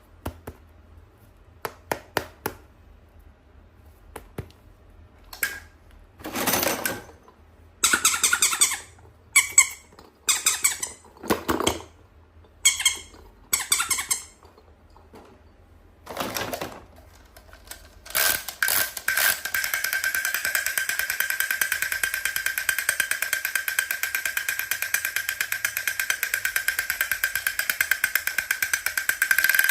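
Unboxing handling sounds: a few light clicks, then several short rustling, scraping bursts of packaging or plastic being handled. About two-thirds of the way in, a steady high-pitched buzzing with a rapid pulse starts and runs on, like a battery toy switched on.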